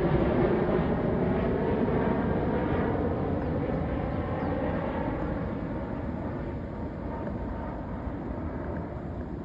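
Jet airliner's engines running as it lands and passes, a steady rumble that fades gradually as the plane moves away.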